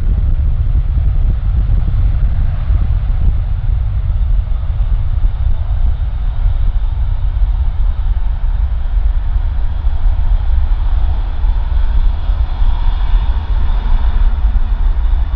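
Jet airliner engines: a deep, steady rumble, with a higher whine growing stronger near the end.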